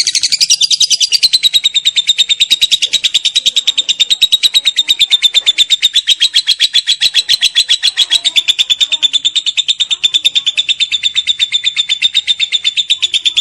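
Lovebird giving a long 'ngekek': an unbroken run of rapid, shrill chirps kept up without a pause, the long chattering song prized in lovebird contests.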